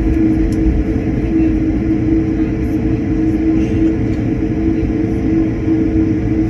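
Airliner cabin noise: a steady low rumble of the engines and airflow with a constant hum on top.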